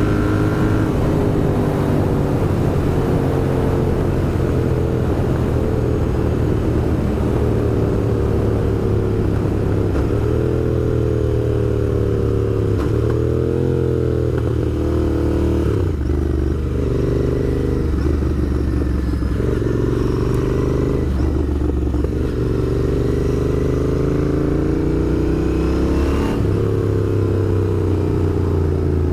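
Royal Enfield Interceptor 650's parallel-twin engine running under way, its revs climbing and falling several times with a sharp drop near the end.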